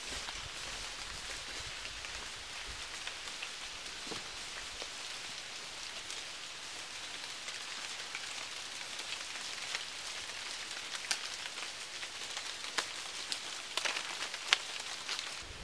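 Light rain pattering on dry fallen leaves: a steady hiss with scattered sharp drop ticks, which come thicker and louder near the end.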